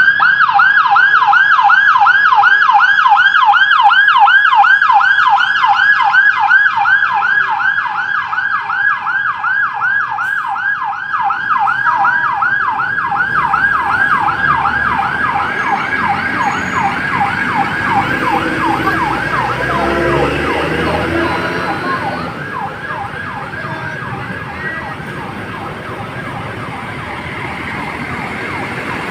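Electronic vehicle siren yelping in fast repeated sweeps, loud at first, then fading after about seven seconds as it moves away, leaving a low rumble of vehicle traffic.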